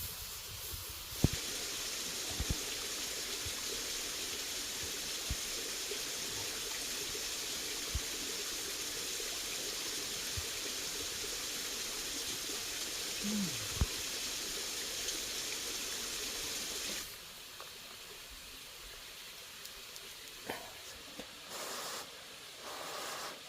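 Steady running or pouring water that starts suddenly about a second in and cuts off sharply after about sixteen seconds, with a few light knocks along the way.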